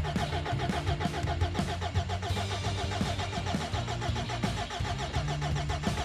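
Car engine cranking on its starter and starting, a steady run of repeated mechanical pulses.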